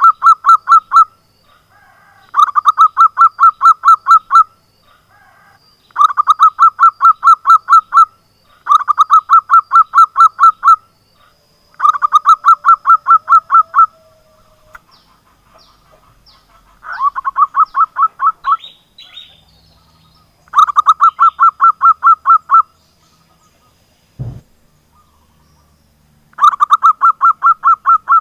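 Zebra dove (perkutut) calling: repeated runs of rapid cooing notes, each run lasting about two seconds and coming every three to four seconds. There is a single low thump about 24 seconds in.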